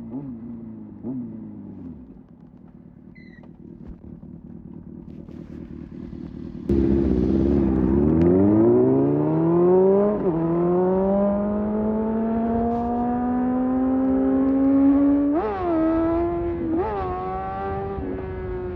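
Sport motorcycle engine on a ride: it slows with a falling note, runs quietly low for a few seconds, then about a third of the way in the throttle opens hard and the note climbs steeply. A gear change comes about halfway through, the engine keeps pulling with a slowly rising pitch, gives two quick rev blips near the end, and then eases off.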